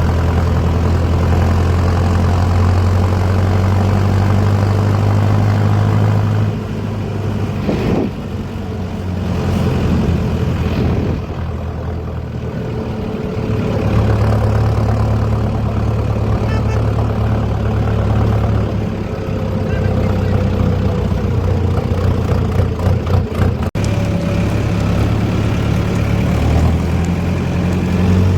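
Heavy diesel engine of sugarcane harvesting machinery running steadily, its low hum dropping away and building up again a few times.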